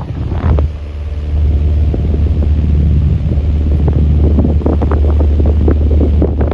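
Antique Dayton Type 367 12-inch table fan running, its air blast buffeting the microphone with a steady low rumble. It grows louder over the first second or so, then holds steady.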